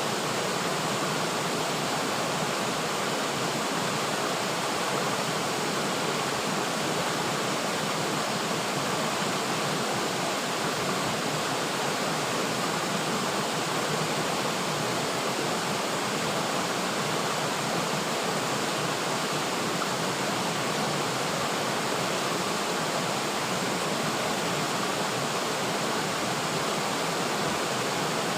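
River water flowing steadily: an even, unbroken rushing sound with no separate splashes standing out.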